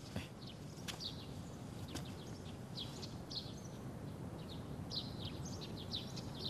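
Birds chirping repeatedly in short, high, falling chirps over a steady low background noise, with two faint clicks about one and two seconds in.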